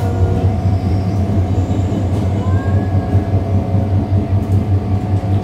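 Disneyland Resort Line train running, heard on board: a steady low hum with a faint constant higher tone above it.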